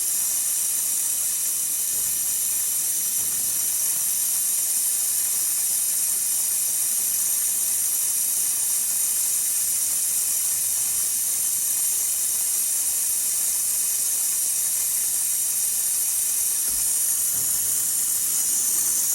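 Steady hiss of a compressed-air vacuum brake bleeder running, pulling brake fluid and air out through the front brake caliper's bleed nipple. It cuts off suddenly at the end.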